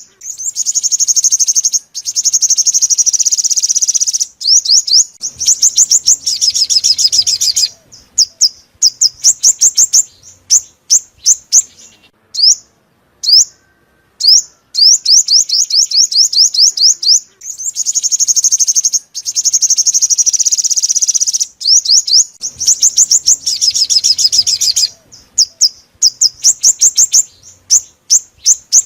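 Sunbird song: long, fast, high trills of rapid sweeping notes alternate with shorter runs and single spaced chirps. The same sequence repeats about halfway through, as in a looped lure recording.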